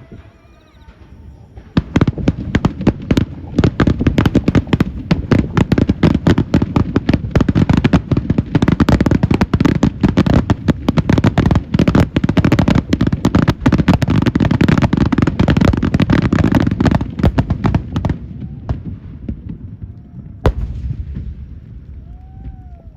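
Aerial fireworks bursting in a rapid barrage, dozens of bangs overlapping for about sixteen seconds, then stopping. One more single bang follows a couple of seconds later, near the end.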